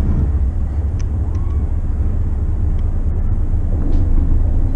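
Steady low rumble of a McKinna 65 motor yacht under way, its engines running at a steady speed.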